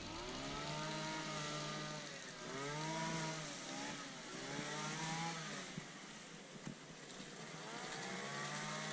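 Small petrol engine of a motor lawnmower revving up and down again and again, with each surge of revs a second or so long and a slight drop between surges.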